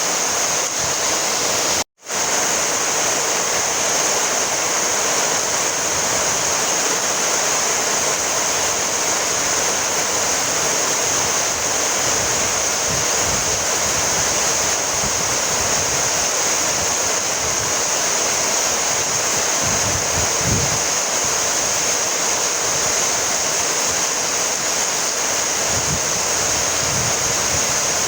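Steady heavy rainfall, an even hiss of drops that cuts out completely for a split second about two seconds in, with a few soft low rumbles now and then.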